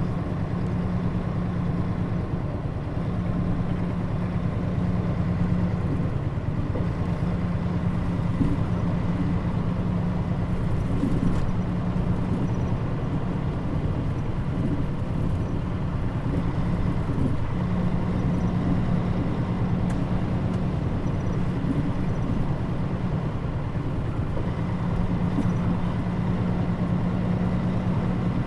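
Mitsubishi Fuso Aero Star city bus (KL-MP35JM) running at a steady speed, heard from inside the cabin: a continuous engine and road drone with a steady low hum that fades out and returns a few times.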